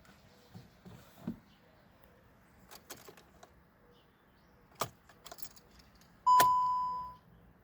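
A Volkswagen Golf 7's instrument-cluster warning chime sounds once about six seconds in, a ringing tone that fades over about a second. A few sharp clicks come before it. No engine cranking is heard, matching the car's no-crank fault with an ESC warning.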